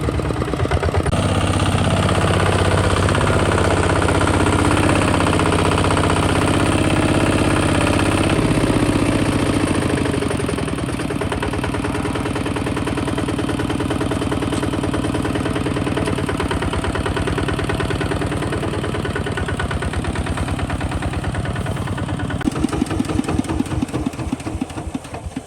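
Kubota ZT 155 DI single-cylinder diesel engine of a two-wheel tractor running with a steady putting beat. It eases off a little about ten seconds in, and near the end its firing beats become slow and separate before it drops away.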